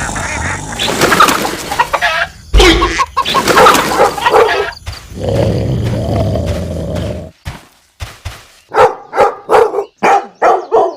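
Animal calls, ending in a dog barking repeatedly, about two to three barks a second, over the last two seconds.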